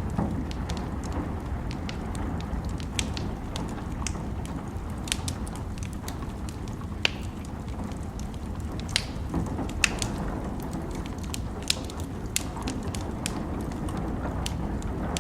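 Fireplace crackling with scattered sharp pops, a few louder ones in the middle, over a steady low rumble of rain.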